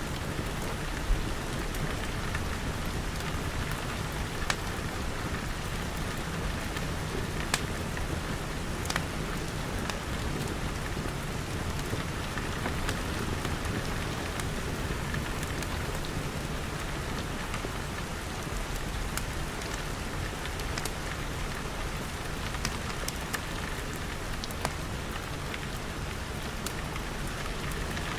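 Steady rain pattering on glass walls and roof, with scattered sharp pops of a crackling wood fire.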